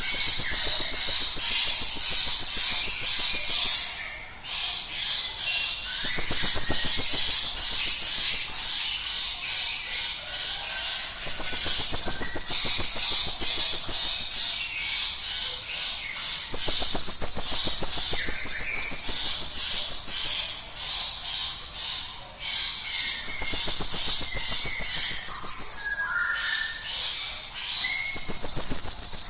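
Glatik batu (cinereous tit) singing: six long, high, very rapid trilled phrases of about three to four seconds each, with softer chirps between them.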